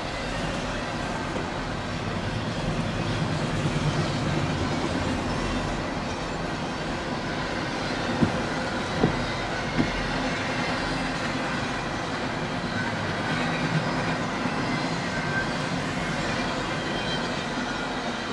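CSX freight train rolling past, its wheels running over the rails in a steady rumble, with three sharp knocks near the middle.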